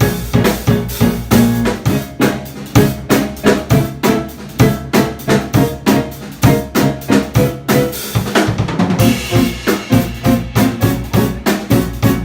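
Live jazz band playing, with a drum kit driving a busy beat of bass drum, snare and rimshot strikes, about four a second, over bass and keyboard lines.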